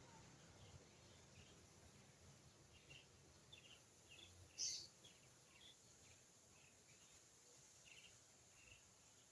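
Faint, scattered short bird chirps over a quiet background hiss, with one louder, higher chirp about halfway through.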